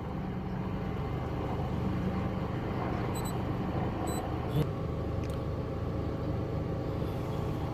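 Honda Civic engine idling steadily, heard from inside the cabin. A few faint short beeps come about three and four seconds in, with a small click just after.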